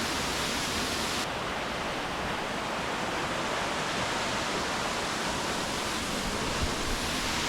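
Steady rush of flowing water from a nearby creek or small waterfall.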